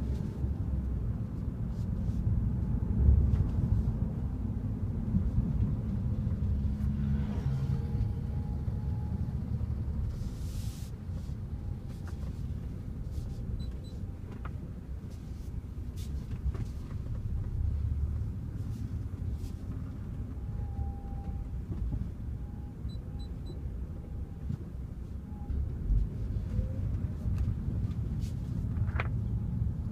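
BMW car running with a steady low rumble, a faint thin whine coming and going, and a few light clicks.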